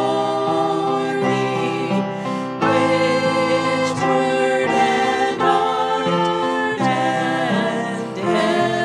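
Congregation or choir singing a hymn with instrumental accompaniment, in sustained chords that change about every second.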